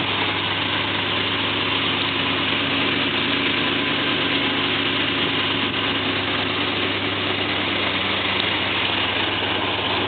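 1972 Ford pickup truck engine idling steadily, an even low hum with no change in speed.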